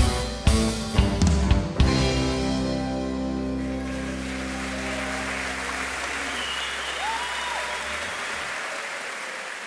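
A choir and band end a song with a few final drum hits and a held chord that rings out and fades over several seconds. Audience applause rises beneath it and carries on alone, with a brief whistle about seven seconds in.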